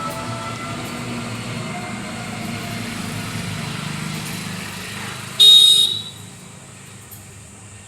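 A steady outdoor rumble, then a single short, loud, high-pitched horn toot a little over five seconds in, after which the background drops quieter.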